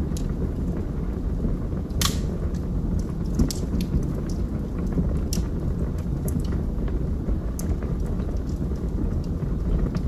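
Wood fire burning in a fireplace: a steady low rumble of flames with scattered crackles and pops from the burning logs, one sharper pop about two seconds in.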